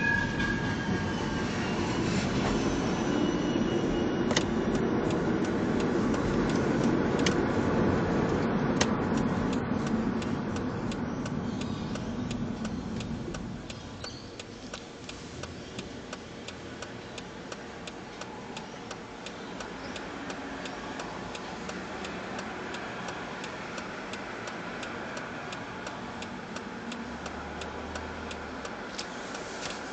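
A heavy vehicle rumbles past and fades out about halfway through. Steady, regular ticking then carries on over quieter street noise.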